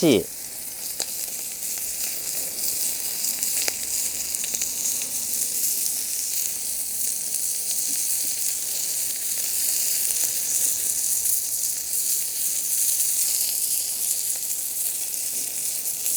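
Chicken sizzling hard on a Yokozawa Teppan iron griddle over a fiercely burning Swedish torch, a steady hiss with a few faint pops.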